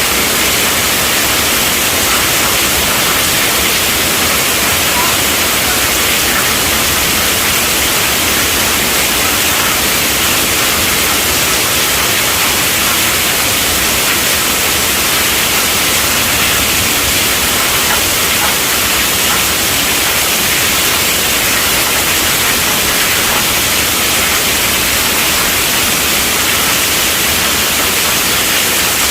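Heavy rain falling on a tent roof: a dense, steady hiss that does not let up.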